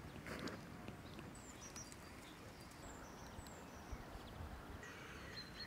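Faint birdsong: short, high chirps here and there over a steady low outdoor background, with a few soft clicks.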